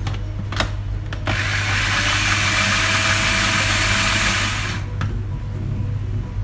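Electric blender puréeing cooked chicken livers and butter into a smooth pâté: a couple of clicks, then the blender runs in one burst of about three and a half seconds and stops.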